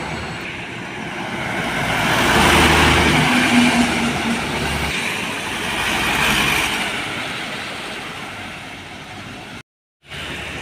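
Large diesel road vehicles passing by one after another, their engine and tyre noise swelling twice, about two and a half seconds in and again about six seconds in. The sound then fades, cuts out for a moment near the end and resumes.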